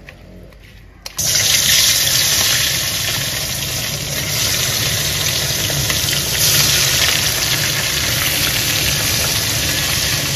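Hot oil in a cooking pan sizzling loudly and steadily, starting suddenly about a second in as food goes into the pan.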